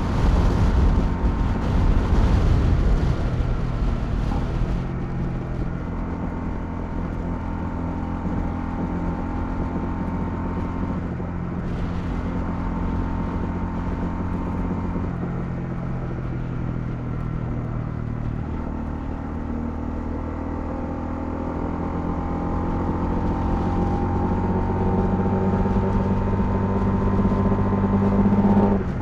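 Honda CL250's single-cylinder engine running under way, with wind rushing over the microphone for the first few seconds. The engine note changes in steps, then climbs steadily near the end as the bike accelerates, and drops sharply at the very end with a gear change.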